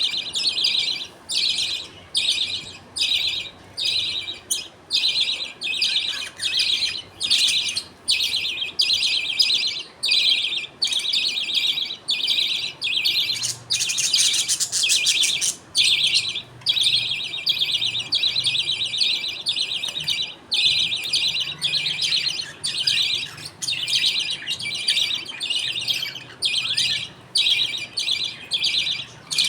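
Budgerigars chirping in a colony, in dense bursts that break off and start again a little more than once a second.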